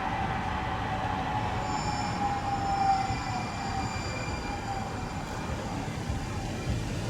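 A train rolling by with a steady low rumble and a thin wheel squeal that sags slowly in pitch and fades about two thirds of the way through.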